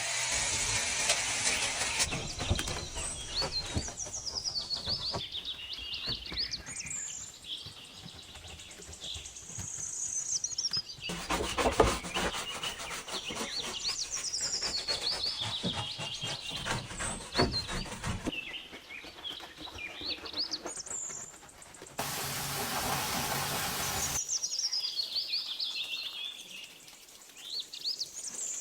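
Birds chirping in quick high trills that fall and rise again, over and over. A few seconds of even hissing noise, typical of a water spray, come in near the start, about midway and about three-quarters through.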